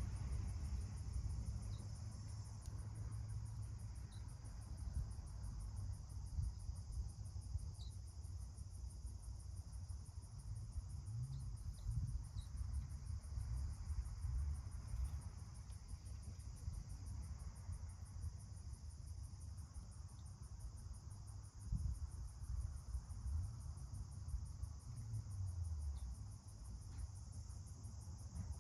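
A steady, high insect trill, pulsing rapidly without a break, over an uneven low rumble, with a few faint short chirps scattered through.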